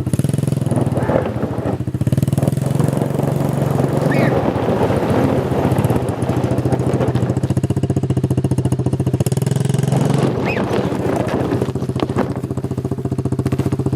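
Pit bike's small single-cylinder engine running steadily, with rougher, busier noise through the middle.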